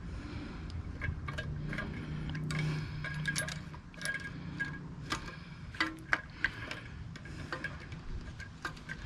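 Hand tools and small metal engine parts clicking and clinking in irregular taps, several with a short bright metallic ring, as parts around a small-engine carburetor are worked loose.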